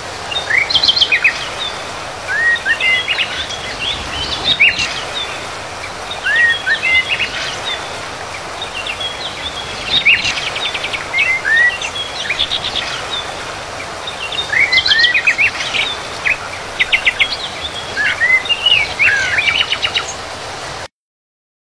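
Birds chirping and trilling in quick, high calls over a steady hiss. The sound cuts off abruptly near the end.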